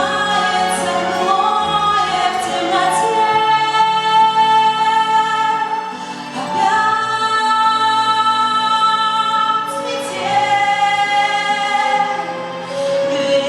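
Music: a woman singing a slow song in long held notes over accompaniment.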